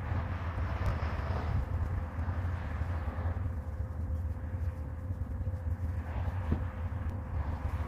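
A steady low hum with a faint, steady higher tone above it.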